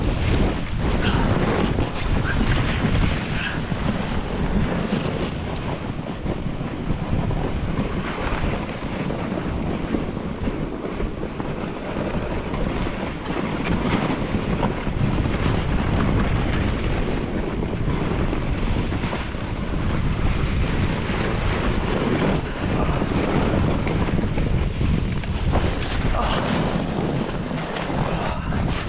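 Wind buffeting the microphone while riding downhill on a snowboard, over a continuous rushing hiss of the board sliding on snow.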